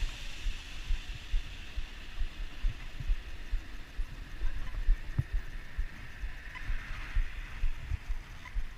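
Wind buffeting the microphone in irregular low thumps, over a steady hiss of riding on a bicycle.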